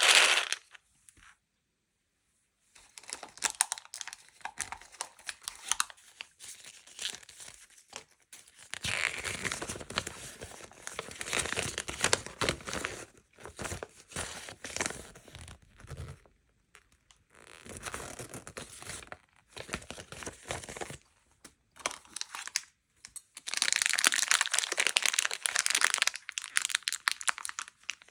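Packaging crinkling and tearing as sweets and toys are unwrapped, in stretches of a few seconds broken by short pauses.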